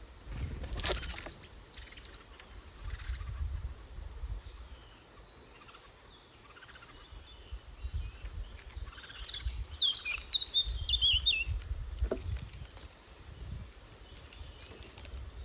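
Woodland songbird singing a rapid jumble of high notes for about two seconds, a little past the middle, over a low rumble. A sharp knock comes about a second in and another at about twelve seconds.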